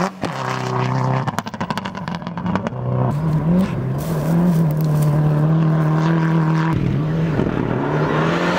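Rally car engine running hard at high revs through gear changes. The pitch drops at each shift and climbs again. About a second and a half in, the steady note breaks into a run of rapid pops and crackles.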